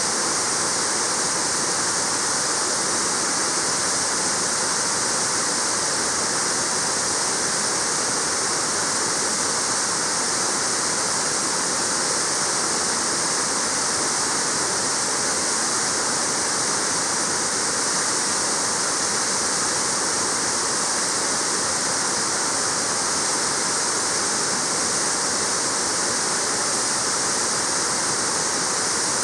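Waterfall: a steady rush of falling water splashing into a pool, even and unbroken, with a hissing brightness.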